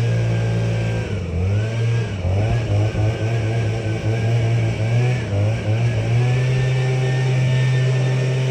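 Tractor engine running: steady at first, then its speed wavers up and down unevenly for about five seconds before settling back to a steady run.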